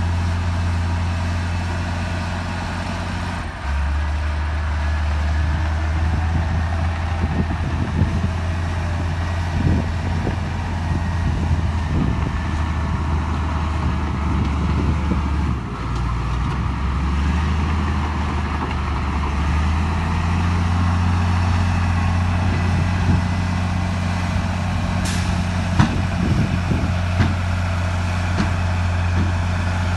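Heavy diesel engine of earthmoving machinery running steadily under load, its engine note stepping in pitch a few times, with scattered clanks and knocks. A brief high hiss comes about 25 seconds in.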